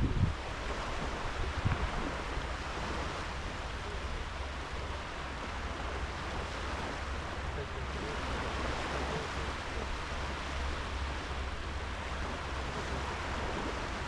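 Small sea waves washing onto a sandy beach: a steady, gently swelling wash. A couple of low thumps sound in the first two seconds.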